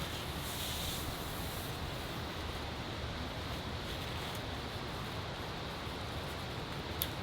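Steady rain falling, an even continuous hiss, with a single sharp tick near the end.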